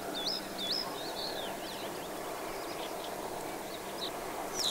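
Small songbirds chirping, a string of short quick calls that sweep up and down in pitch, busiest in the first second or so, over a steady background hum of distant outdoor noise.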